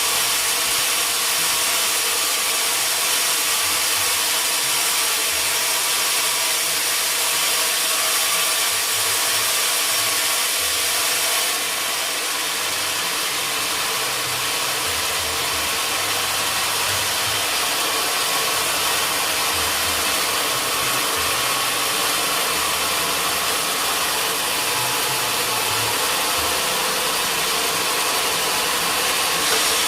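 Sawmill machinery running with a steady, hissy noise and a faint low hum; the level dips slightly about a dozen seconds in.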